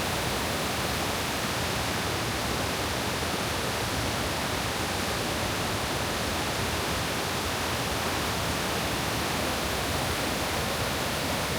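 Steady rushing roar of a large waterfall pouring down.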